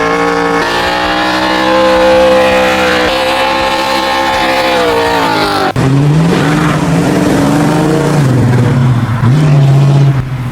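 Classic Ford Mustang V8 held at high revs, steady and loud, then dropping off about five seconds in. After a sudden cut, another Mustang V8 revs up and down several times.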